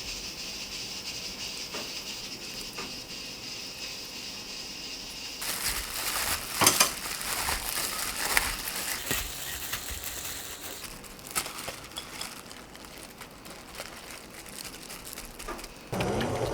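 A steady hiss, then about five seconds in, the crinkly rustling and light clicks of seasoned bean sprouts being tossed and mixed in a bowl.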